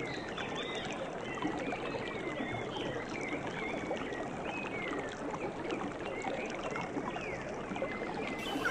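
Steady rush of running water with many small birds chirping over it in short, high, quick calls.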